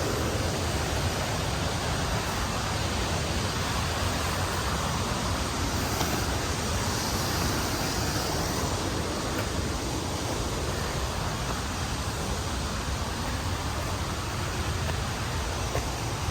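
A waterfall's water rushing in a steady, unbroken wash of noise.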